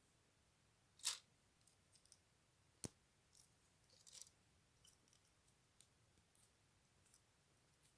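LEGO plastic pieces being handled and fitted together: a few scattered faint clicks and rustles, with one sharp click a little before the middle.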